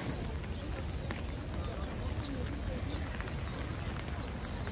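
Japanese white-eyes (mejiro) calling in the cherry trees: a run of short, thin, high chirps, several a second, over the steady hiss of rain.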